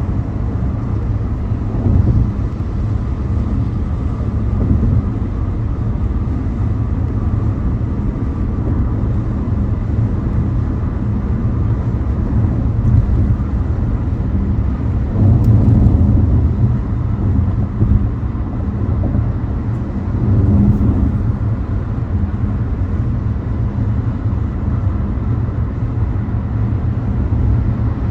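Car driving on a highway: a steady low rumble of road and engine noise, swelling briefly a few times.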